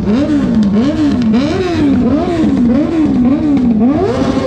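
Motorcycle engine revved in quick repeated throttle blips, the pitch rising and falling each time, with a higher rev near the end.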